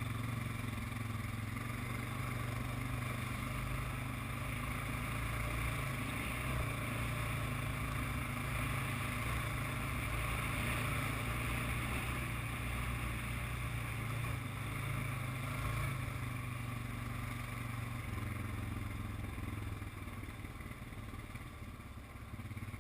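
ATV engine running steadily while riding a dirt forest trail, easing off a little near the end.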